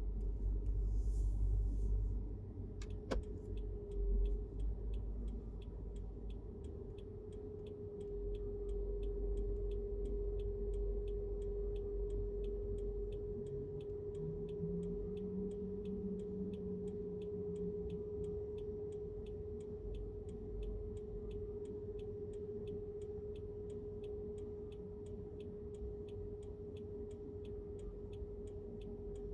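Car driving, heard inside the cabin: a low road and engine rumble with a steady whine over it and a fast, regular ticking throughout. There is a single sharp click about three seconds in.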